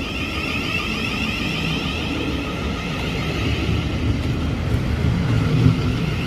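Thameslink Class 700 electric multiple-unit train running through the station: a continuous rumble with a steady high whine above it.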